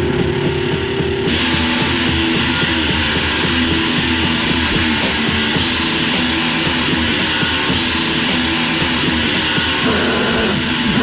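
Heavy metal demo recording with loud distorted electric guitars. About a second in, brighter, fuller playing comes in over a held low note.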